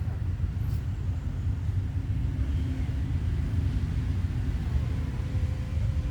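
Steady low rumble that fluctuates slightly.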